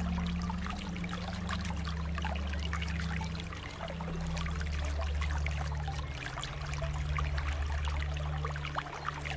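Flowing water running steadily, with many small splashes and trickles over a steady low rumble.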